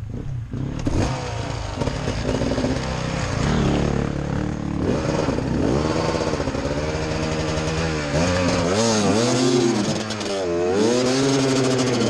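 Enduro dirt bike engine revved hard again and again, its pitch rising and falling in repeated surges. The revving comes on a slippery section where the bike is struggling for grip.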